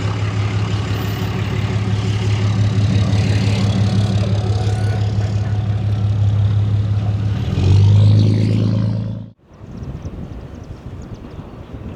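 A motor vehicle's engine running steadily with a low hum. It grows louder about three quarters of the way through, then cuts off abruptly.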